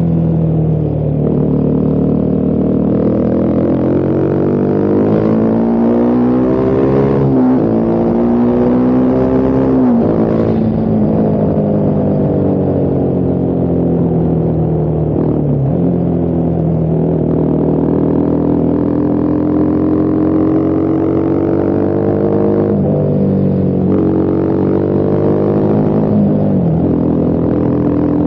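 Husqvarna Vitpilen 401's single-cylinder engine riding along, its pitch climbing as it accelerates and sinking as it eases off, with several sudden drops in pitch at gear changes.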